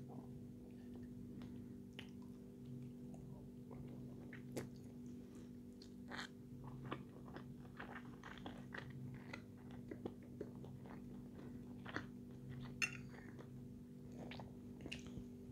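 Close-up eating sounds: chewing and mouth smacks with scattered short clicks, one sharper click near the end, over a steady low hum.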